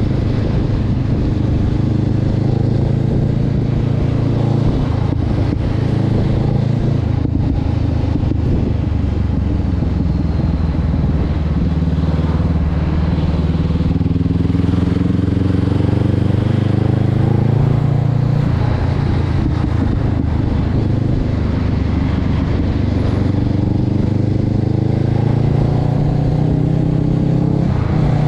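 Honda CB500X parallel-twin engine running through an aftermarket Termignoni exhaust. The note rises and falls slowly as the revs change, climbing and then dropping around the middle and again near the end.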